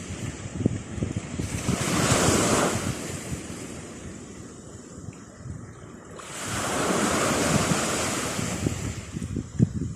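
Atlantic Ocean surf: a wave breaks and washes in about a second and a half in, and a second one at about six seconds, with wind buffeting the microphone throughout.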